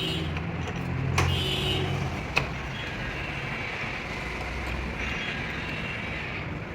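A low, steady mechanical hum that fades after about five seconds, with a soft knock about a second in and a sharp click about two and a half seconds in.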